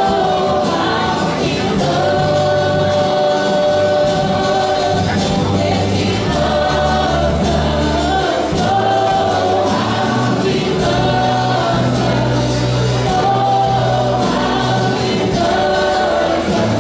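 Church worship band and singers performing a gospel worship song: held sung lines over bass and keyboard.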